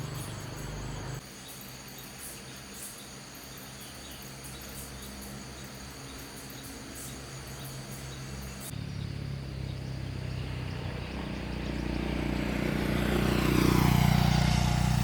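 A motor vehicle's engine running steadily and growing louder toward the end, as if coming closer. Insects chirp in the first half.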